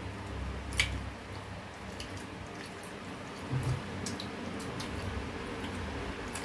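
Mukbang eating sounds: scattered small wet clicks and smacks from chewing and handling food, the sharpest one about a second in.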